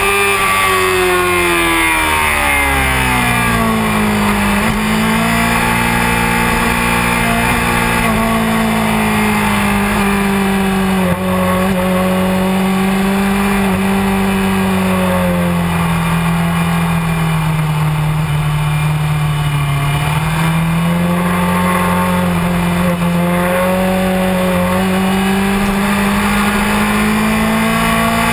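Honda CBR600F4i sport bike's inline-four engine running hard on track. Its pitch drops steeply in the first few seconds as the bike slows, then holds at mid revs with slow rises and falls. It sinks lowest about two-thirds of the way through and climbs again near the end.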